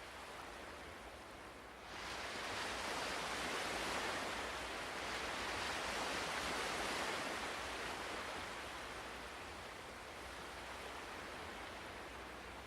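Ocean waves: a steady rushing hiss of surf that swells about two seconds in and eases off again after several seconds.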